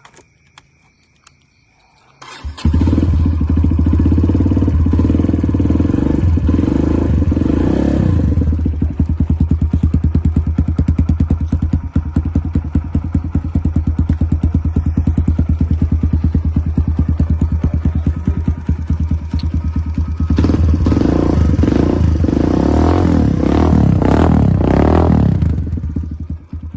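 Kawasaki KLX150BF's single-cylinder four-stroke engine running loud through its exhaust. It comes in about two seconds in and is revved for several seconds, then drops to a steady low throb. About twenty seconds in it is revved again, then drops back near the end.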